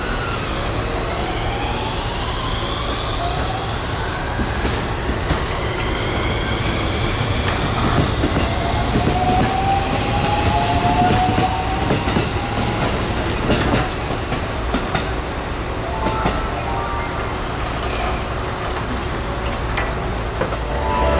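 Electric passenger train passing at speed, wheels clacking over the rail joints. A whine rises in pitch over the first few seconds, and another whine runs through the middle.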